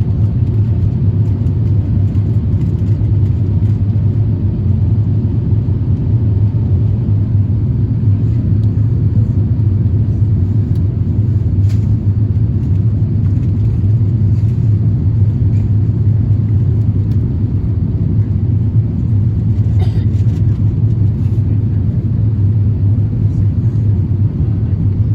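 Airbus A350-1000 airliner noise: a steady, loud low rumble of engines and airflow, with a couple of faint clicks.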